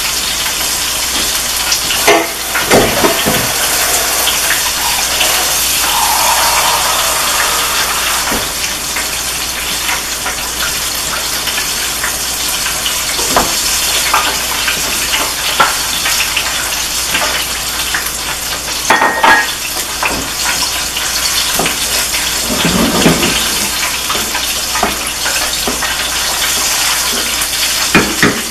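Okra, shrimp and sausage sizzling steadily in a pot on the stove. A wooden spoon scrapes and knocks against the pot now and then.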